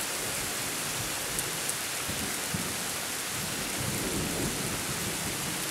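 Steady heavy rain, with a low rumble of thunder building briefly about four seconds in: a weak, anticlimactic peal after a lightning flash.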